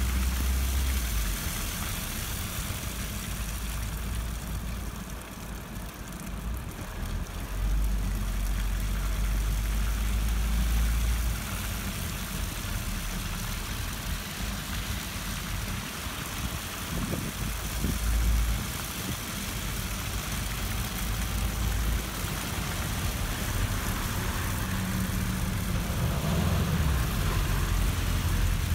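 Motor vehicle engine running steadily: a low drone with an even hiss over it.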